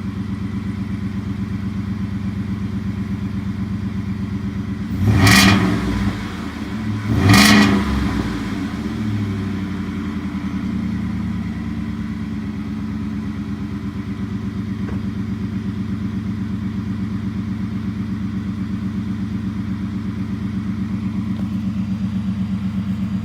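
Ford F-150's 5.0L Coyote V8 idling through a Raptor cat-back exhaust with the resonator deleted and the stock Raptor muffler, revved twice in quick succession about a quarter of the way in, then settling back to a steady idle.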